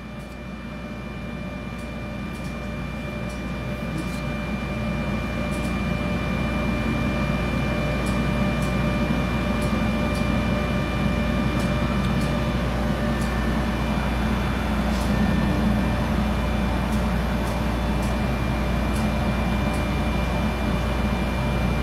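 Steady drone of ship engine-room machinery, a low hum with a high whine over it, growing louder over the first several seconds and then holding. Faint scattered clicks sound over it.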